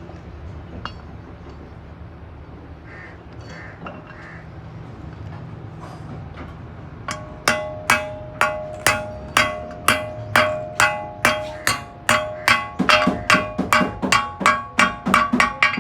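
A hammer strikes metal over and over, each blow ringing. About twenty blows start seven seconds in, at about two a second, and speed up to about three a second near the end.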